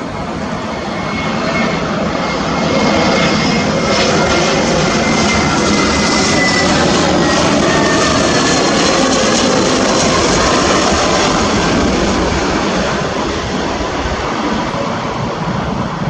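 Airbus A320neo jet airliner with Pratt & Whitney PW1100G geared turbofans passing close by. The loud engine noise builds over the first couple of seconds and holds for several seconds before easing off. Whining engine tones slide down in pitch as it goes by.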